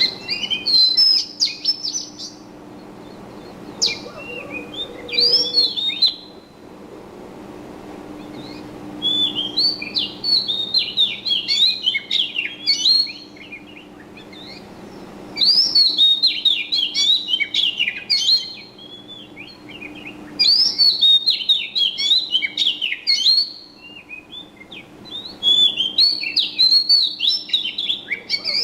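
A small bird singing in quick, twittering phrases of two to four seconds, repeated about six times with short pauses between them.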